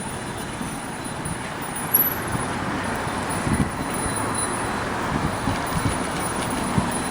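Steady outdoor traffic noise from a street, with a few short dull thumps.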